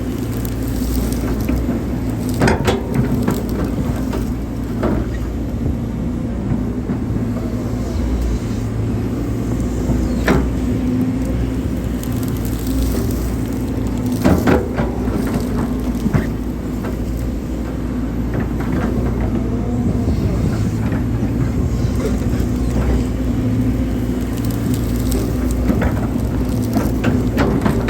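Hydraulic excavator running steadily under load while digging, with a few short knocks and clunks from the bucket and arm working the soil.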